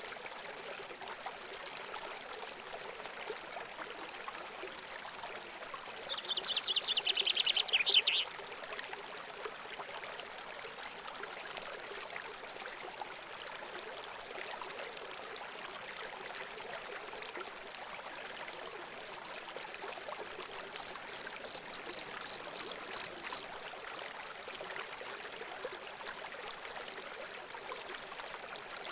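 Water running steadily, with birds singing over it: a fast, high trill about six seconds in, and a series of about eight short high notes, getting louder, around twenty-one seconds in.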